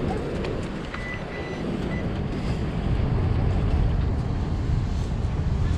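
Wind buffeting the microphone over the low steady rumble of heavy surf, with a metal detector giving a short steady beep about a second in and a brief blip about a second later.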